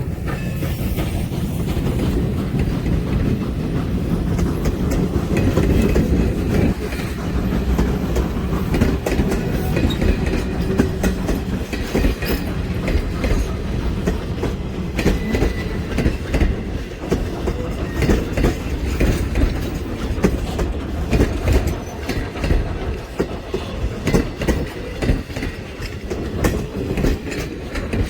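Steam-hauled train rolling past, its wheels clacking over rail joints with many sharp clicks over a continuous low rumble; the sound grows more uneven and thins toward the end.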